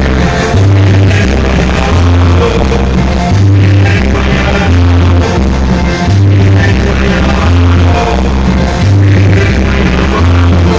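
Loud music with a heavy repeating bass line of long low notes about once a second and some singing, played through a large sound system being tested.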